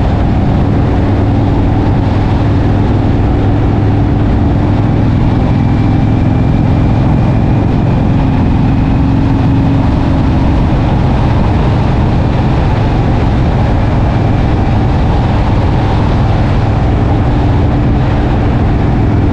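Indian motorcycle engine running steadily at cruising speed, with heavy wind noise from riding without a windshield.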